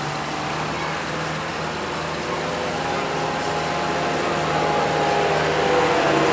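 Tractor engine running steadily, growing louder and rising slightly in pitch over the last few seconds.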